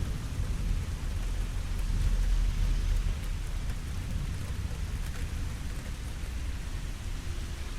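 Steady rain falling, with a low rumble underneath that swells about two seconds in and then eases.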